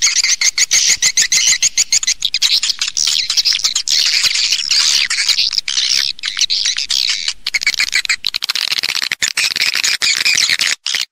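A dense flock of swiftlets twittering, with rapid high chirps and clicks overlapping without pause and a brief break near the end. This is a mixed call-and-roost swiftlet recording, the kind played to lure swiftlets into a nesting house.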